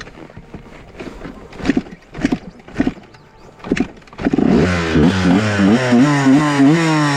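Honda CR125R's 125 cc two-stroke single being kick-started: several kicks, then the engine catches about four seconds in and is revved in a series of quick blips, its pitch rising and falling.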